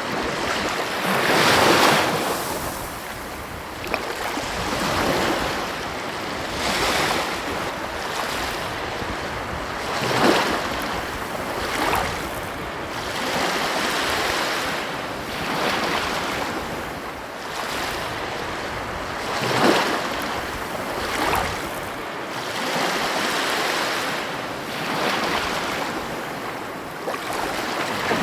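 Ocean waves breaking and washing on a shore, a steady rush that swells and falls with each wave, the strongest crashes about 2, 10 and 20 seconds in.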